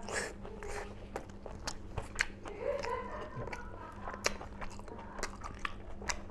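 Close-mic'd chewing of smoked pork and rice eaten by hand: wet crunching and many sharp mouth clicks, with a short hummed 'mm' about halfway through.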